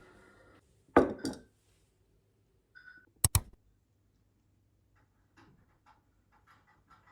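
Kitchenware being handled: a loud knock with a short ringing tail about a second in, then a sharp double clink a little past three seconds, followed by faint, irregular light ticks.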